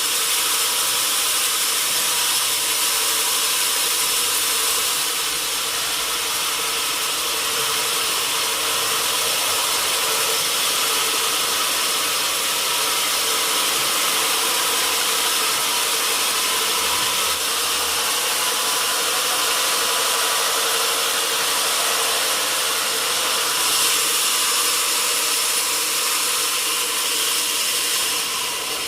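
Sawmill machinery running steadily: a constant mechanical drone with a few held tones under a strong high-pitched hiss.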